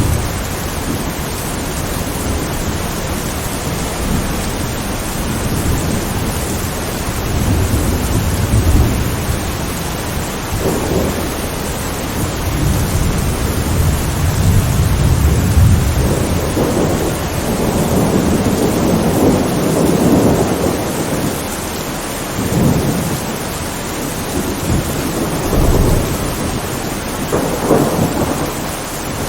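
Steady heavy rain with thunder rumbling low in repeated rolling swells.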